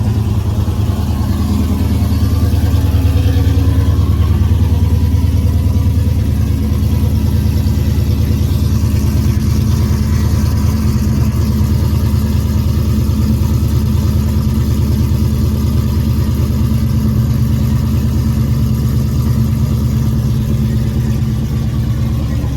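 Hemi V8 car engine running loud and steady close to the microphone, its firing pulses even, with no clear revs.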